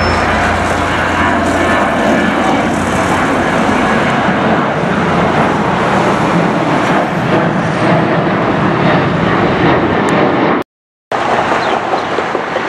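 Jet airliner engine noise: a loud, steady roar with a faint high whine sliding in pitch. It cuts out abruptly near the end and a similar roar starts again half a second later.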